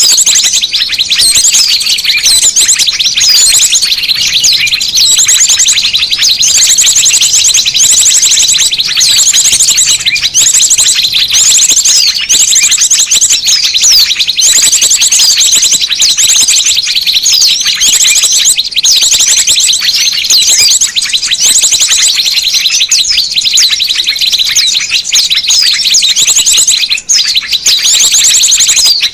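Dense, nonstop chatter of many small birds, made of rapid high-pitched trills and chirps: a bird-lure recording of agitated, noisy small birds used to call other small birds in.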